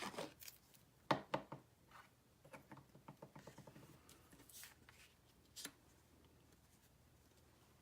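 Light taps, knocks and rustles of hands handling cardstock and a bottle of liquid glue on a table, with a few sharper knocks about a second in and a brief paper-brushing hiss near the middle.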